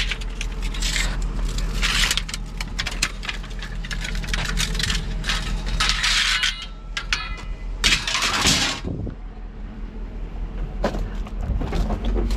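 Scrap pieces clattering and knocking as they are handled and moved, a run of rattling impacts with a short metallic ring about seven seconds in, over a steady low hum.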